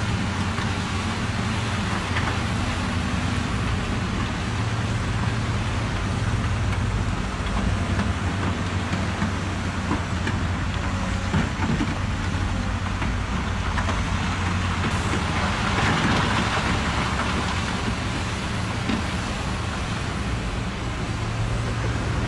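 Truck engine running steadily with a low even hum, with some rougher noise swelling briefly past the middle.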